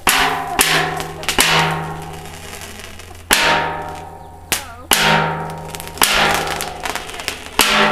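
Fireworks going off inside an overturned metal drum: about eight sharp bangs at irregular gaps, each trailing off in a fading rush, with a low steady ring under them.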